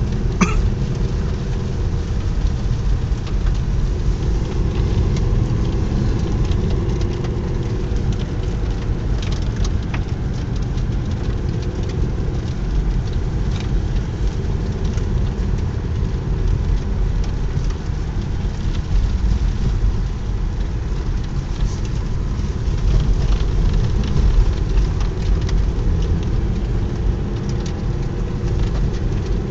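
Steady engine and road noise of a car driving up a snowy mountain road, heard from inside the cabin: a constant low rumble with a hiss of tyre noise and scattered faint ticks.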